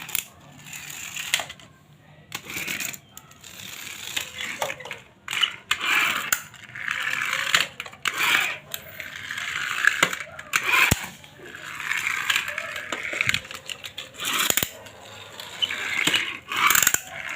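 Toy cars clattering and clinking against one another as they are handled, in an irregular run of sharp clicks and rattles.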